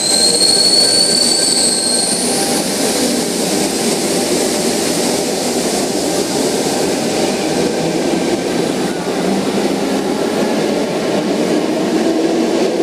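Tangara electric train accelerating away from the platform: a high motor whine rises over the first couple of seconds, then a steady rumble of wheels and carriages running past.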